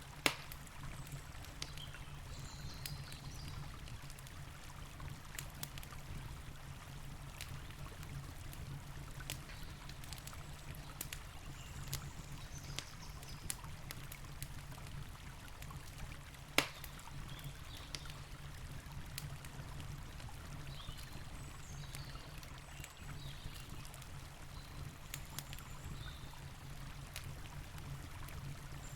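Campfire crackling with scattered small snaps and two louder sharp pops, one at the start and one about halfway through, over the steady low rush of a flowing river.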